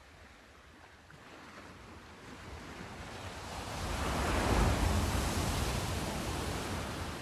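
Sea surf: a single wave builds, breaks loudest about halfway through, then washes back and fades.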